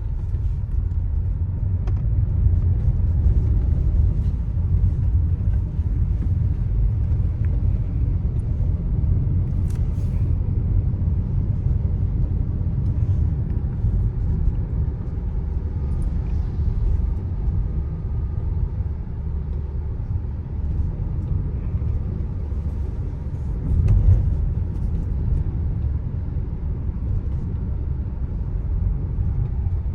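A Hyundai Creta being driven: a steady low rumble of engine and road noise, with a brief louder bump about two-thirds of the way through.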